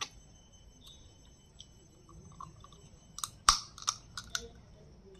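A person biting and chewing cooked crab in the shell, with a quick run of sharp cracks and clicks a little past halfway, the loudest just after three and a half seconds.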